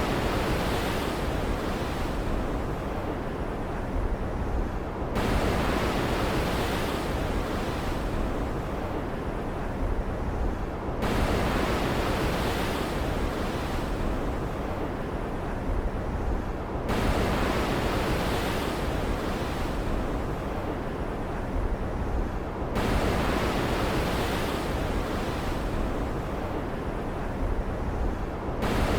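Stormy ocean ambience: a wave surges in about every six seconds, each one starting abruptly and fading away, over a continuous low rumble.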